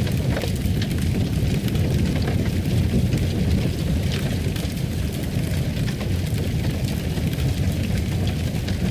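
Fire crackling in a fireplace: a steady low rumble with frequent small pops and crackles.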